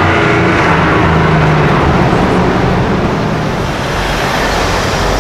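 A car engine running close by at steady revs, its note giving way to road and traffic noise about three seconds in.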